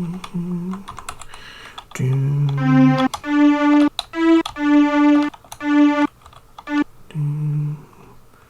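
Classic Amiga Soundtracker string sample played from a tracker as short half-second notes, mostly on one pitch with one higher note, while computer keys click as the notes are entered.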